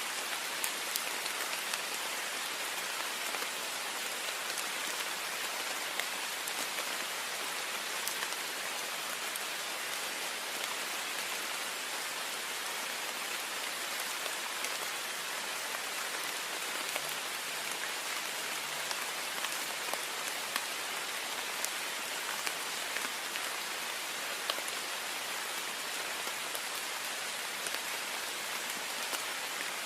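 Heavy rain falling steadily on a window: a dense hiss of water with frequent sharp ticks of single drops hitting the glass.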